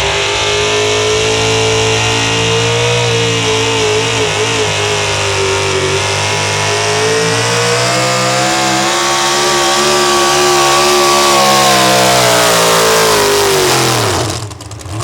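Four-wheel-drive pulling truck's engine running hard at high revs while pulling the sled. The pitch holds high and wavers, then drops sharply near the end as the throttle comes off.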